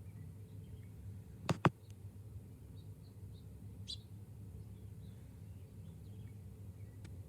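Small birds giving faint, short chirps, with one clearer chirp about four seconds in, over a steady low background hum. Two sharp knocks in quick succession about a second and a half in are the loudest sound.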